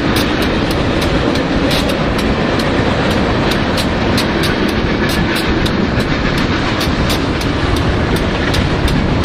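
BNSF freight train's cars passing at speed: a steady loud rolling noise of wheels on rail with rapid, regular clicks, about four or five a second, as the wheels cross rail joints.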